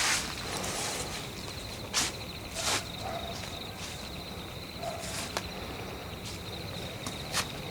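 Crickets chirping steadily in a high pulsing trill at night, with a few scattered crunching footsteps on the forest floor.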